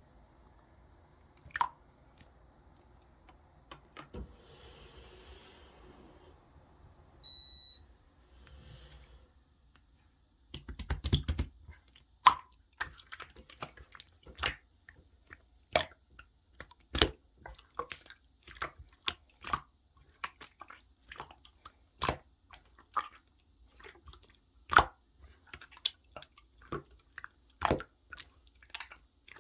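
Clear slime being squeezed and poked by hand, making sharp, irregular wet clicks and pops, one or two a second, from about a third of the way in. Before that there is only faint handling noise and a brief high beep.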